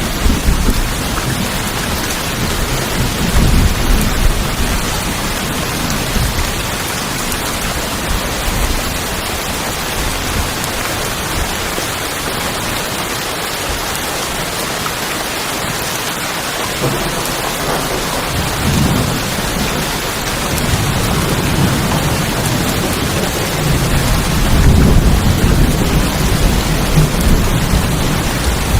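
Steady rain falling on tin roofs, with low rolls of thunder near the start and again through the last third.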